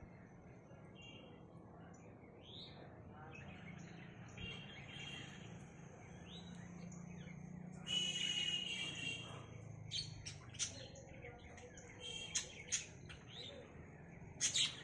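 Birds chirping, in short high calls scattered through, with a louder burst of chirping about halfway through and several sharp calls near the end, over a faint low hum.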